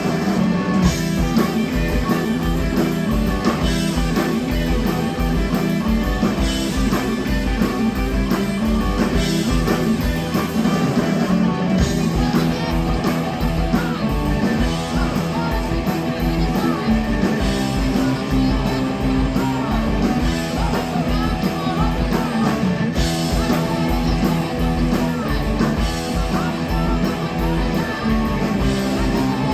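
Live rock band playing loud: distorted electric guitars over bass and a drum kit keeping a steady beat.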